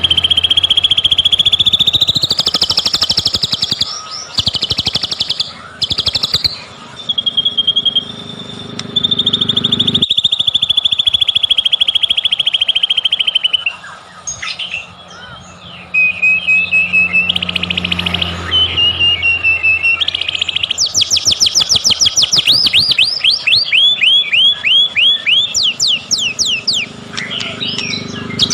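White-rumped shama (murai batu) singing loudly: long, drawn-out whistled trills for the first half, then, about two-thirds of the way in, a fast run of quickly repeated sweeping notes.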